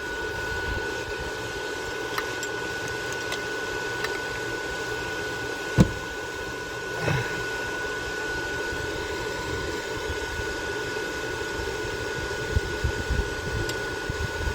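Steady whir of a fan-like machine with a constant high whine, broken by one sharp knock about six seconds in and a softer knock a second later.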